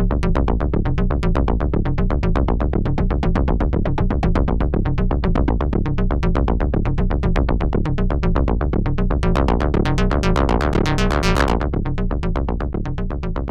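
Analog percussion synthesizer running a fast sequenced pattern of repeating hits over a deep bass tone. Past the middle the sound turns much brighter for a couple of seconds, then drops back and begins to fade near the end.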